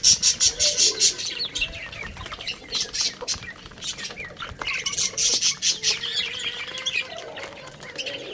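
Many birds chirping and squawking at once: a dense run of quick, high-pitched calls, loudest at the start and again about five seconds in.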